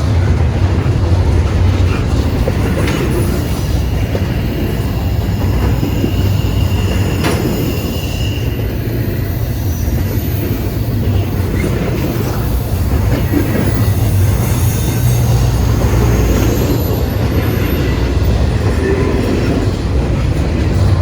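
Freight train rolling past close by: a steady, loud rumble of cars on the rails, with scattered wheel clicks and a faint wheel squeal about eight seconds in.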